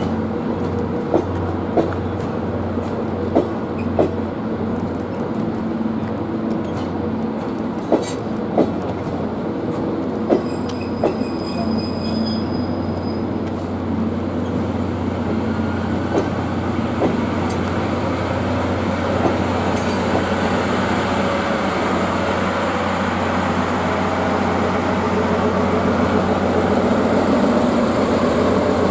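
A train of blue passenger coaches rolling slowly past, wheels clicking over rail joints at irregular intervals over a steady low hum. In the last few seconds the sound grows louder as the DE10 diesel locomotive draws level.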